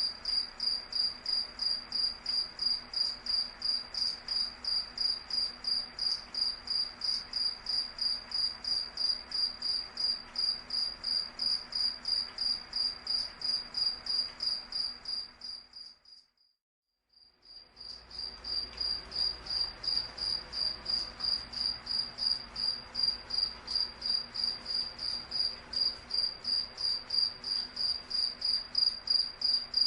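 A cricket chirping in a steady, rapid, even rhythm of high-pitched pulses. About halfway through the chirping fades out, there is a second or so of silence, and then it fades back in.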